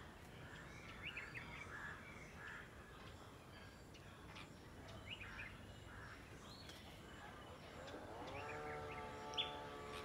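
Faint, short bird chirps scattered over steady outdoor background noise. Near the end a steady hum of several tones rises in pitch and then holds.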